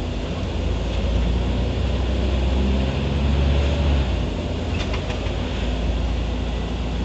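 Scania CN94UB OmniCity city bus running under way, its engine a steady low drone. The engine note shifts about three seconds in and eases off about four seconds in, with a couple of faint clicks near five seconds.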